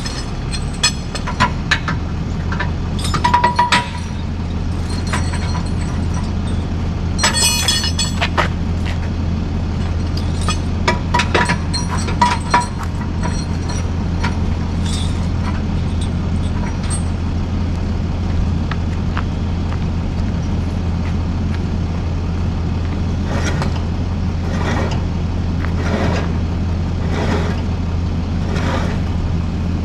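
Tow truck engine idling steadily at an even pitch, with scattered metallic clinks and clanks over the first half, a few with a short ring, and a run of softer knocks near the end.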